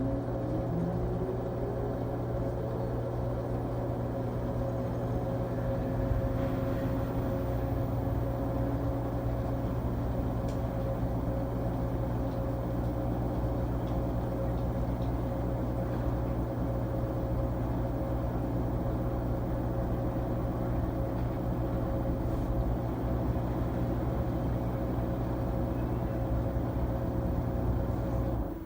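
LG Tromm WD-CR101C drum washing machine running a quick-wash cycle: a steady motor hum with one tone rising in pitch over the first few seconds. It drops off suddenly near the end as the drum's running changes.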